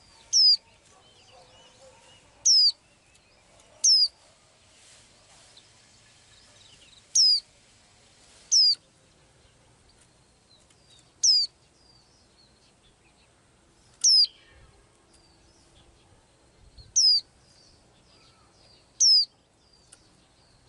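A small bird repeating a short, high, sharply falling call note about nine times, one every one and a half to three seconds, with faint softer chirps in between.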